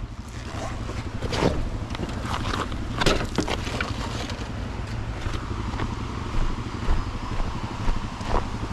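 Dual-sport motorcycle engine dropped back to a low idle, with a few sharp knocks about one and a half and three seconds in.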